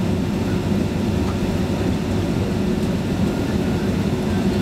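Steady low rumble and hum inside the economy cabin of a Boeing 767-300 on the ground after landing, with engines and air systems still running.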